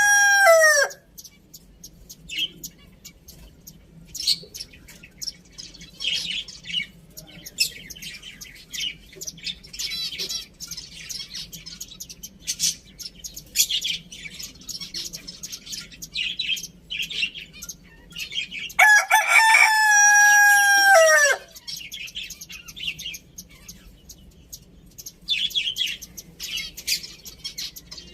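A rooster crows once, a long loud call that drops in pitch at the end, about two-thirds of the way through, and the tail of another crow dies away as the sound begins. In between, small birds keep up frequent high-pitched chirping.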